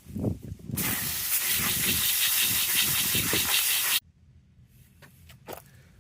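Water rushing with a loud, even hiss for about three seconds, after a few low knocks, then stopping abruptly.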